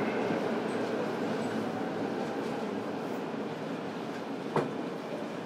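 Interior running sound of a JR East E231 series commuter train, heard from a motor car: a steady rumble of wheels and running gear that slowly gets quieter. One sharp click comes about four and a half seconds in.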